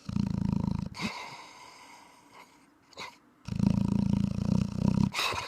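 Thai Ridgeback dog snoring in its sleep: two long, low, rattling snores about three seconds apart, each ending in a short breathy exhale.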